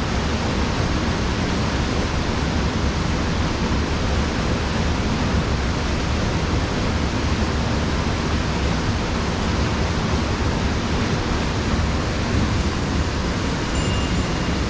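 Mountain stream rushing steadily, running high after rain.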